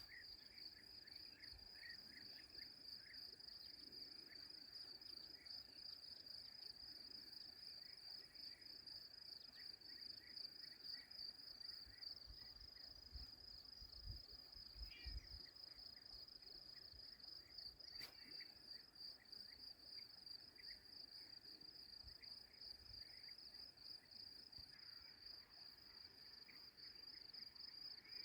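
Faint, steady high-pitched insect trilling, with softer short chirps scattered beneath it.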